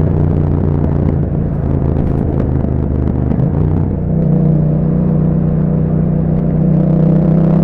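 2021 Yamaha MT-07's 689 cc parallel-twin engine running through an Akrapovic exhaust with a dB killer fitted. The engine note wavers and shifts for the first few seconds, then settles into a steady drone from about four seconds in.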